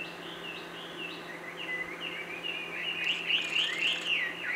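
A small bird chirping over and over, short quick notes sliding up and down, several a second, growing louder toward the end.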